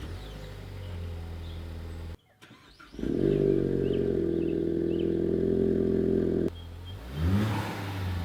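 Ford Focus ST's exhaust through a 3-inch cat-back system, heard in short edited clips: a steady low idle, then a louder steady note at higher revs for a few seconds, then a quick rising rev near the end.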